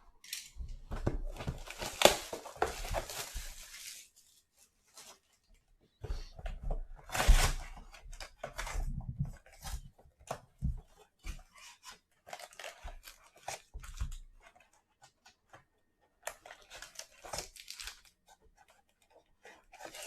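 A 2020 Select Football trading-card mega box being torn open: a ripping tear of a few seconds, another loud tear about six seconds in, then scattered crinkling and rustling as the wrapping and packs are handled.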